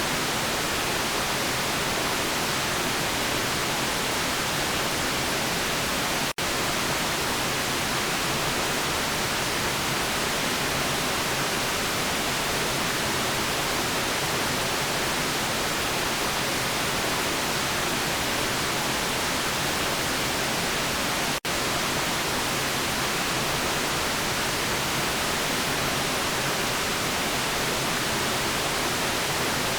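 Steady hiss of generated white noise, even across the whole range, with two split-second dropouts: about six seconds in and again about twenty-one seconds in.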